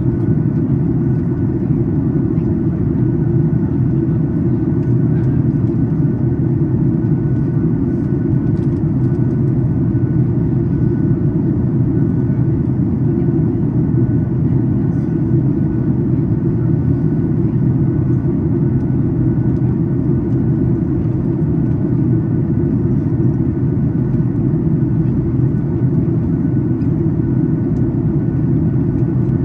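Steady cabin rumble inside a Boeing 737 MAX 8 airliner in flight: engine and airflow noise, heard from the economy cabin during the descent, with a faint steady whine above it.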